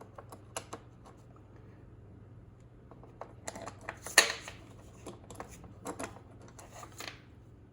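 Scattered light clicks, taps and scrapes of hand work on plastic car-door panel parts, fitting the airbag sensor with a Phillips screw, with one sharper click about four seconds in. A steady low hum runs underneath.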